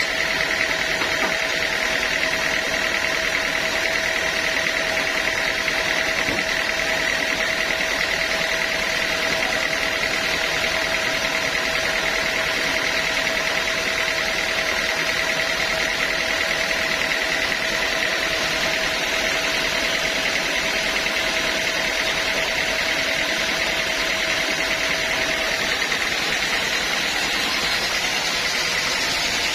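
Sawmill saw running steadily, with a constant high tone over an even machine noise; a lower tone in it stops a few seconds before the end.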